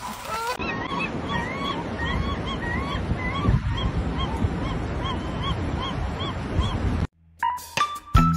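A bird calling over and over in short calls that rise and fall in pitch, about two or three a second, over a steady low rush of noise. It cuts off about seven seconds in, and background music starts near the end.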